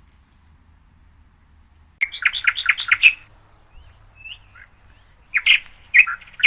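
Bird chirping. About two seconds in comes a quick run of sharp chirps, then a few faint calls, then more chirps near the end.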